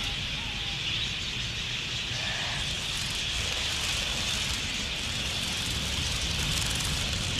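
A large flock of wild budgerigars chattering, their many calls merging into one dense, steady chatter, with a low rumble underneath.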